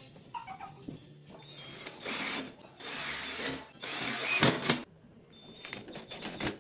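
Power drill running in three short bursts of about a second each, with knocks and clicks between, as in driving screws during furniture assembly.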